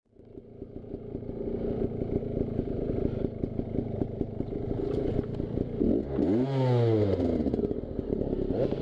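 Two-stroke dirt bike engine running, fading in over the first couple of seconds, with one rev up and back down about six to seven seconds in.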